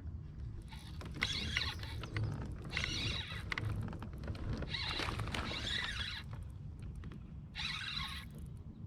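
Kayak paddle strokes: a swishing splash of water about every two seconds as the blades dip and pull, over a steady low rumble.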